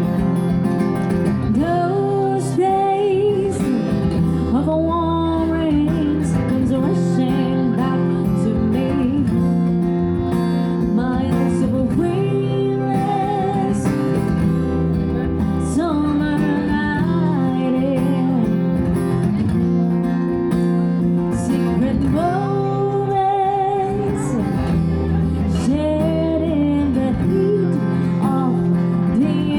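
Acoustic duo performing a song: acoustic guitar strumming chords under a sung melody.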